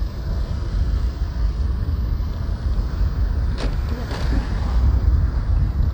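Wind buffeting the microphone on a moving motorbike, a steady low rumble mixed with traffic noise. A brief sharp click comes a little past halfway.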